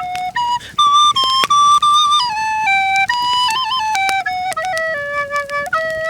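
A flute-like wind instrument playing a folk melody in short stepping notes with quick ornaments and trills. Frequent sharp clicks are heard alongside it.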